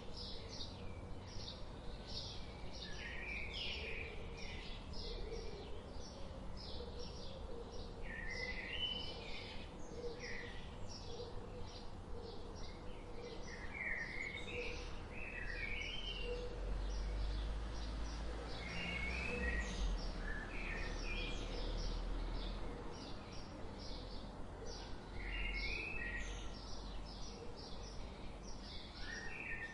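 Several songbirds chirping and twittering: a steady stream of short high chirps overlaid with quick warbling phrases. A low rumble swells through the middle.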